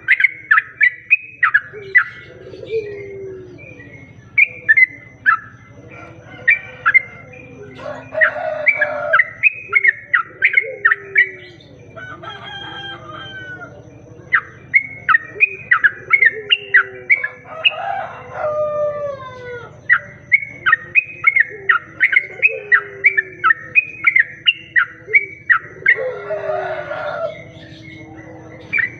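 Yellow-vented bulbul (trucuk) song in a lure recording: rapid runs of short, bright chirping notes with a few falling whistles, broken by three harsher calls about nine seconds apart.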